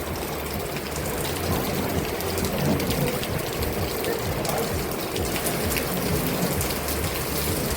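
Steady rain falling, with a dense patter of drops hitting hard surfaces.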